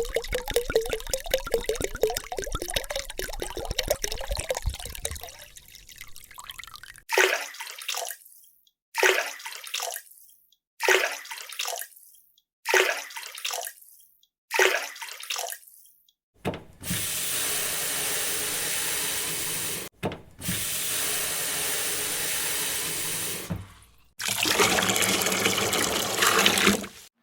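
Liquid being poured and fizzing in a series of separate takes. First comes a long bubbling pour, then five short pours of about a second each, then two longer steady hissing pours like a running tap.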